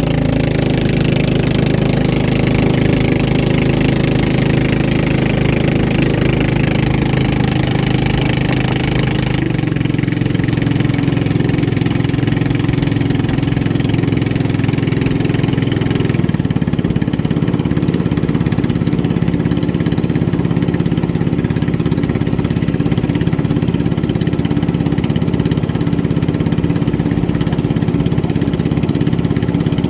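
Racing boat's engine running steadily under way, heard from on board; its note changes twice, about nine and about sixteen seconds in.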